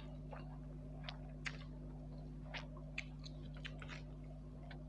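A person chewing a mouthful of spicy instant noodles close to the microphone: scattered wet mouth clicks and smacks, about a dozen, over a steady low hum.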